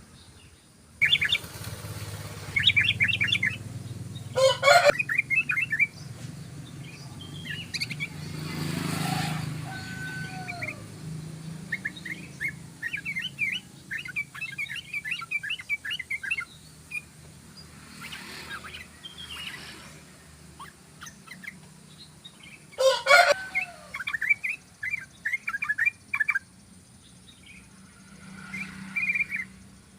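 Yellow-vented bulbul (trucukan) singing: repeated bursts of rapid, bubbly chattering notes, with two louder, harsher notes about four seconds in and again past the two-thirds mark. A steady low hum runs underneath.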